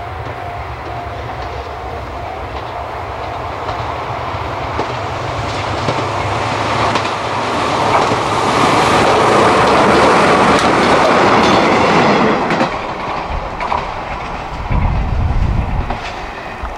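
Izuhakone Railway 7000 series electric train running past, its wheels clattering over the rail joints. The sound builds steadily, is loudest about eight to twelve seconds in as the train goes by, then fades with a few low thumps near the end.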